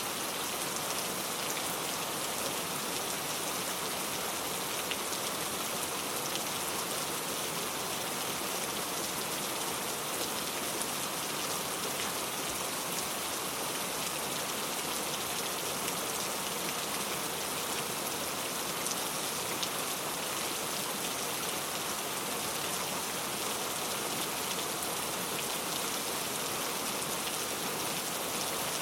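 Heavy rain falling steadily, a dense even hiss of drops pattering on surfaces with fine scattered droplet ticks.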